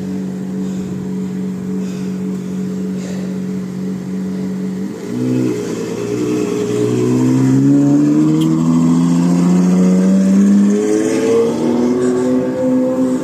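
Ferrari engine running at a steady note, then about five seconds in accelerating, its pitch and loudness rising steadily for several seconds. Near the end the pitch drops and climbs again.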